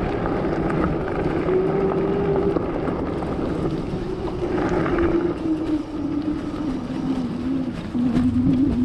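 Electric bike being ridden: a steady whine that slowly falls in pitch, over rushing wind and tyre noise.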